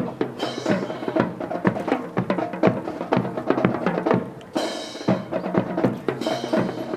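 Rapid, irregular clatter of sharp wooden clicks and knocks: drill rifles being spun, slapped and caught by a drill team working in unison.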